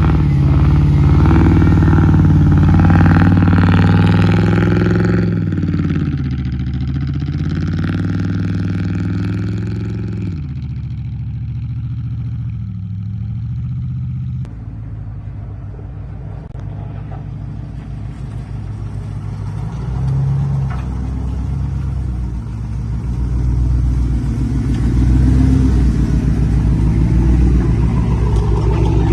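Loud pickup-truck exhausts, revving and running: the engine pitch rises and falls over the first half, then changes abruptly about halfway through to a lower, pulsing run that grows louder near the end.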